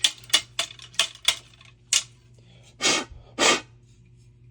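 Metal parts of a gas water heater's burner assembly being handled during cleaning: a quick run of small clicks and scrapes, then two short rushing strokes about half a second apart, over a steady low hum.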